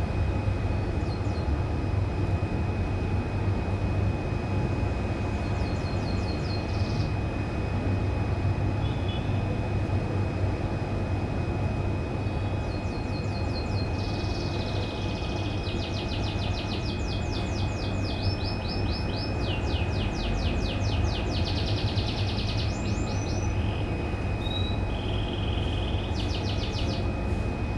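Domestic canary singing in bursts of rapid, high trills and chirps, thickest in the middle of the stretch, over a loud steady low rumble and a thin steady whine.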